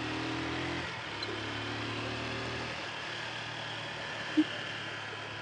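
Motorcycle engine running steadily under way, with road and wind noise. The engine hum drops away about three seconds in, and a brief sharp sound comes about four seconds in.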